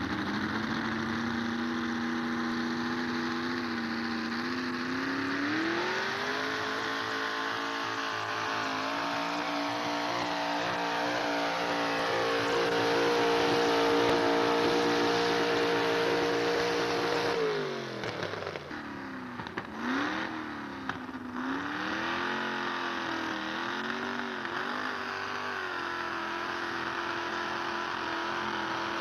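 Pulling truck's engine running hard at high revs. The pitch rises and holds. Just past halfway it drops off sharply, then is revved up and down a few times before settling to a steady lower run.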